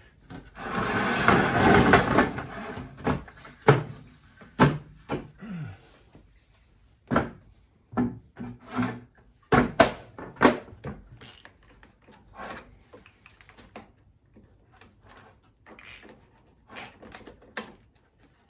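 A scraping, rustling rush about a second long, then a string of irregular knocks and clunks, as objects are handled and set down in a workshop.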